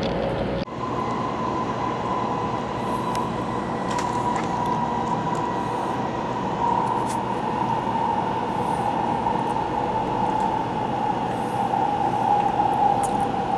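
800-series Shinkansen train running at speed, heard from inside the passenger car: a steady rumble and rush with a whine that sinks slowly in pitch. Just under a second in, the low rumble drops off suddenly.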